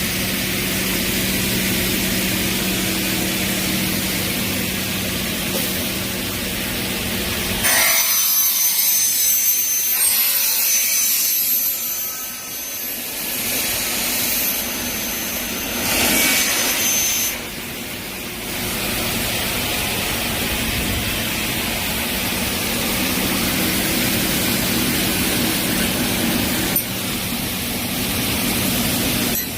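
Semi-automatic precision saw machine running steadily with a low hum. About eight seconds in, the blade cuts into the stock, which the machine is built for as aluminium profile, and gives a loud, bright, high-pitched ringing cut for about ten seconds. The machine then runs on steadily, with a single click near the end.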